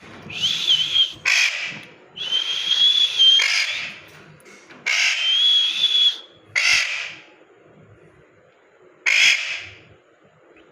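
Parrot calling: three long, steady, high-pitched screeches, each followed at once by a short harsh squawk, then one more harsh squawk about nine seconds in.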